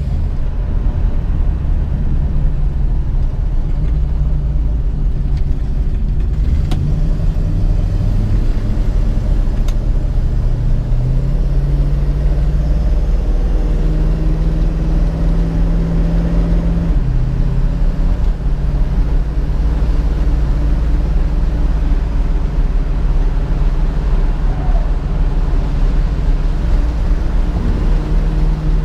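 1967 Ford Mustang's 289 V8 engine running while the car is driven, a steady low engine note whose pitch steps up and down a few times as engine speed changes.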